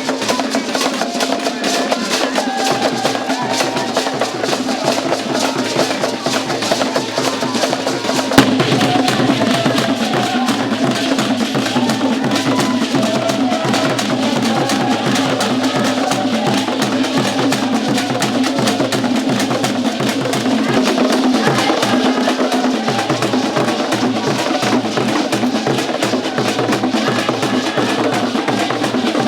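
Music with fast, dense drumming and percussion, including a clicking wood-block-like pattern, over a wavering melodic line. There is one sharp knock about eight seconds in.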